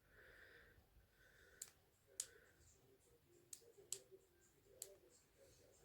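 Near silence broken by about half a dozen faint, sharp clicks, spaced irregularly, from a small battery-powered electronic cat toy being handled and its light button pressed.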